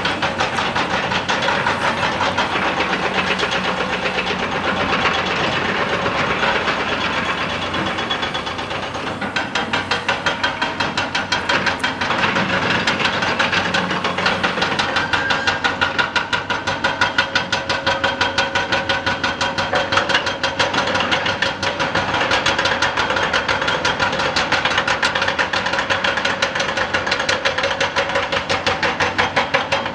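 Excavator-mounted hydraulic rock breaker hammering rock in rapid, evenly repeated blows over the running excavator engine; the blows pause briefly just before the ten-second mark, then continue steadily.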